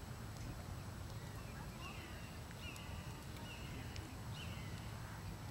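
A bird calling four or five times in short, high, down-sweeping notes, starting about two seconds in, over a steady low rumble.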